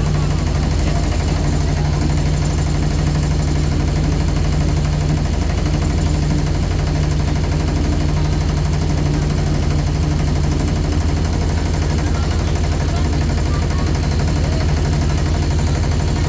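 Motorboat engine running steadily at an even speed, with a fast, regular beat.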